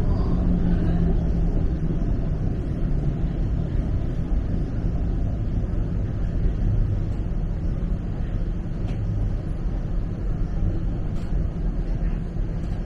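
Inside a moving TTC streetcar: a steady low rumble of the car running along the track, with a faint motor hum and a few light clicks.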